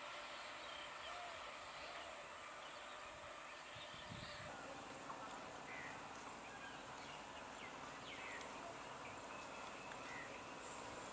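Faint outdoor background hiss with scattered short bird chirps. A faint low hum comes in about four seconds in.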